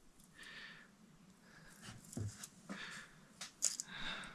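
Faint handling noises: soft rustles, a soft knock about two seconds in, and a few light clicks a little later.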